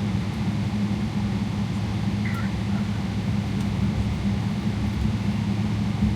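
Steady low drone of a Boeing 777-300ER's engines and airflow, heard from inside the passenger cabin around take-off. The even rumble carries a constant low hum.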